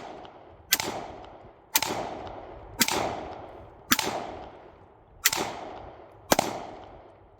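Gunfire in a steady string: six shots about a second apart, each followed by a fading echo.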